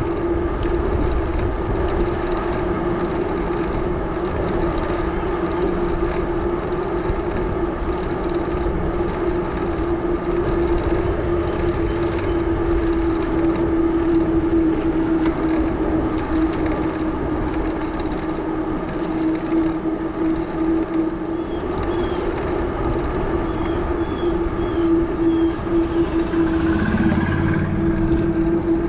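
Salsa Journeyman bicycle's 650b tyres humming loudly on pavement while riding: a steady drone with one held pitch over road noise.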